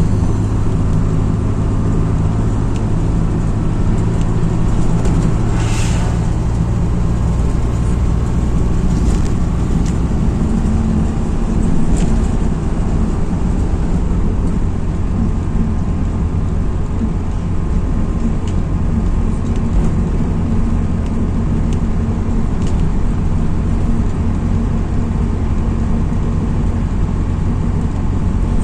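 MAZ-206 city bus heard from inside the cabin while driving: a steady diesel engine and road rumble. A brief hiss comes about six seconds in, and the engine note shifts about ten seconds in.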